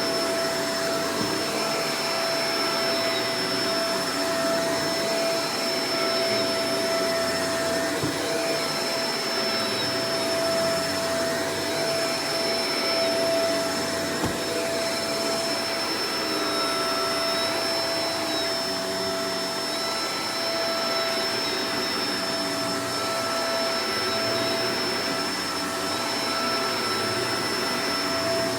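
Shark Professional Powered Lift-Away DLX (NV586) vacuum cleaner running steadily, its motor giving a constant whine over the airflow noise. There is one brief click about halfway through.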